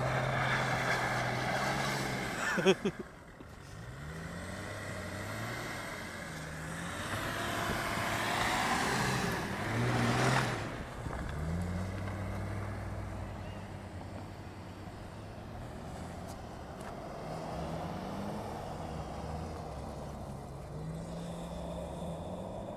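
BMW E34 estate's engine revving up and down repeatedly as the car drifts on snow. A rushing noise sits over it near the start and again about eight to ten seconds in, with a sharp knock a few seconds in.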